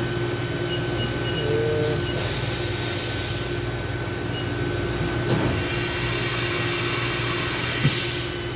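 A steady mechanical hum in a workshop, with several short bursts of hiss: one about two seconds in lasting over a second, a shorter one about halfway, and another near the end.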